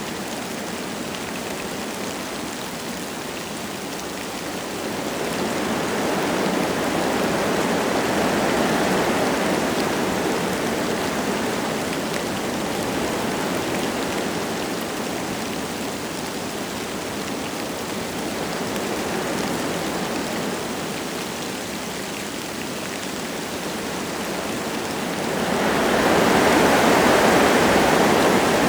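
Wind gusting through forest trees with light rain falling, a steady rushing that swells twice, most strongly near the end.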